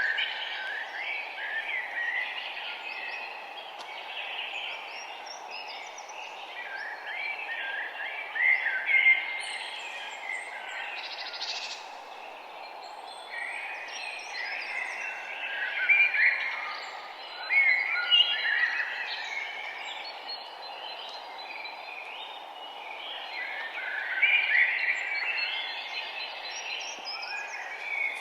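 Several songbirds singing and chirping at once, in overlapping bursts of short phrases, over a steady background hiss.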